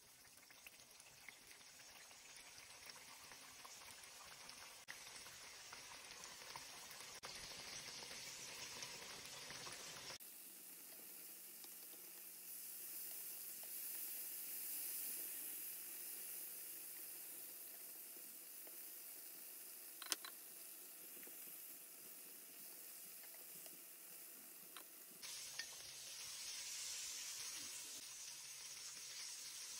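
Flour-coated chicken pieces shallow-frying in hot oil in a frying pan: a steady sizzle that builds as the chicken goes into the oil, with one sharp click partway through.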